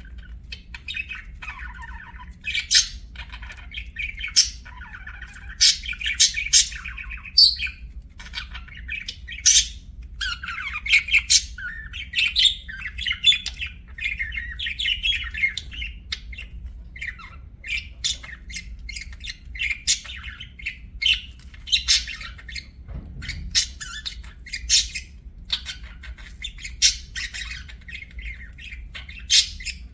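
Budgerigars chattering in a steady warble, broken by frequent short, sharp chirps.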